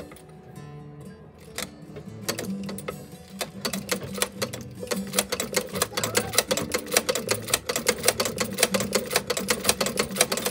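1911 Singer 29-4 patcher sewing machine stitching: a rapid, even clatter of needle strokes that starts slowly about two seconds in and speeds up and grows louder from about four seconds, with faint background music underneath.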